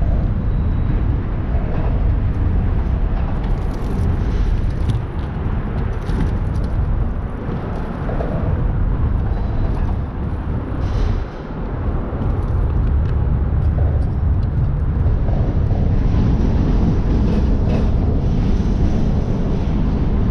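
Loud, steady low rumble on a fishing boat, easing briefly about eleven seconds in, with a few faint clicks.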